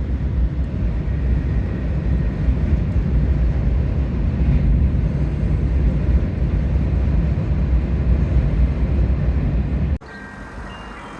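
Train in motion: a loud, steady low rumble that cuts off abruptly about ten seconds in. Soft music with held notes follows it.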